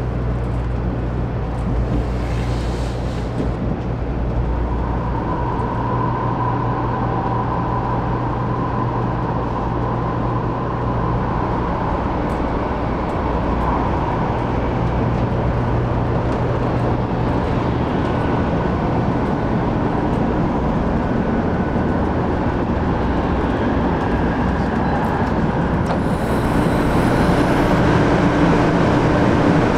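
Steady rumble and hum of a 500 series Shinkansen, heard from inside the passenger car, with a brief hiss near the end.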